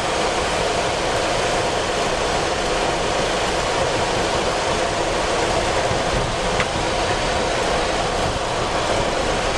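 Steady cockpit noise of a Boeing 737-400 on the ground just before takeoff: an even rushing hiss with a low hum, from the engines running at low power and the cockpit air conditioning.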